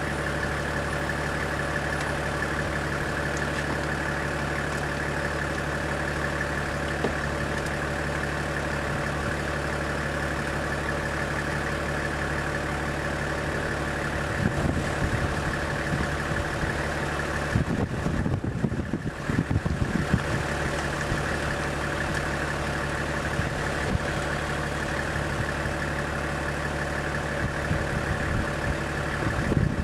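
Vehicle engine idling with a steady hum, with a few low knocks about halfway through and a brief dip in the hum soon after.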